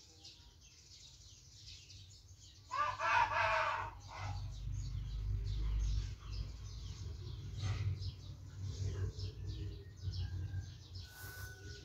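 A bird's call, loud and pitched, lasting about a second and starting about three seconds in, over a low rumbling noise.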